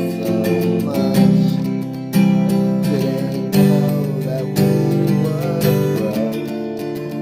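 Music: strummed acoustic guitar chords, a new strum about once a second.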